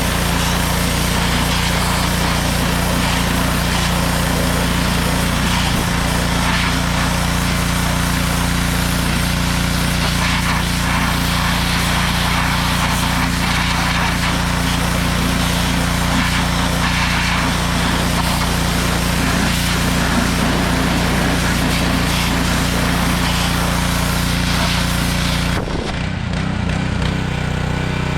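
Pressure washer with a small engine running steadily while its wand blasts water onto a wheel rim, giving a loud, dense hiss of spray. About two and a half seconds before the end the spray cuts off and the engine keeps running.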